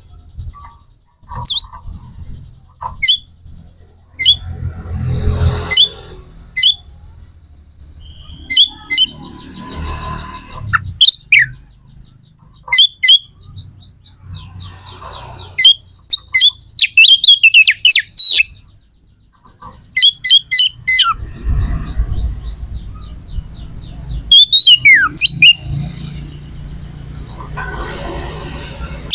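A bird chirping loudly and close, with sharp short calls and several fast trills of repeated notes, and patches of low rumbling noise between them.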